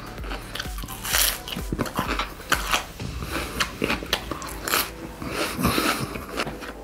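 A person chewing and biting a mouthful of gummy jelly wrapped in a vegetable leaf, with many short, irregular mouth clicks.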